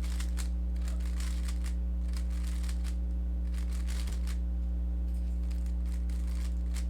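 Rubik's cube being turned in quick flurries of algorithm moves: faint clicks and plastic scrapes of the layers coming in short runs, with a pause in the middle. A steady electrical hum sits under it all.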